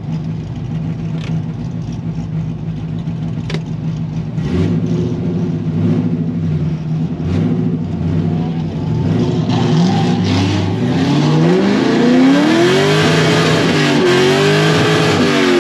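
Corvette drift car's V8 heard from inside the cabin: idling, then blipped a few times, then revved hard with the pitch sweeping up and down as the car drifts. A hiss of tyre noise builds in the last few seconds.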